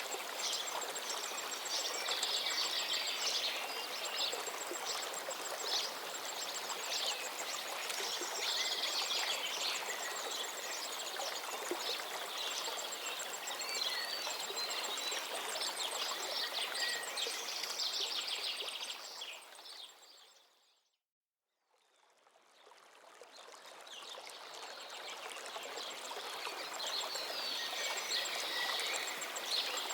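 River flowing steadily with small birds singing and chirping over it. About 20 seconds in the whole sound fades out to silence for a moment, then fades back in.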